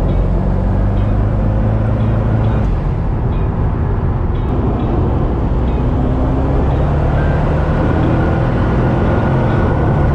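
Twin-turbo 427 V8 of a Corvette running steadily while driving at light throttle, with engine drone and road noise. There is no hard acceleration.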